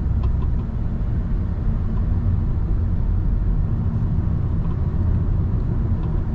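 Steady road and tyre rumble inside a 2013 Toyota Camry's cabin while driving, with a faint rattle from the steering column. The rattle comes from a broken-down electric power steering damper between the steering motor and the column.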